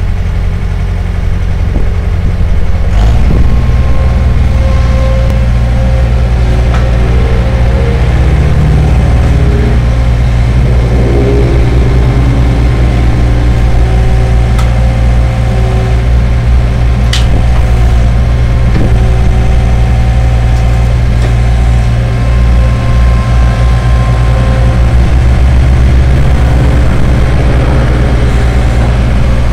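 Skid steer loader's engine running steadily, picking up in speed and load about three seconds in.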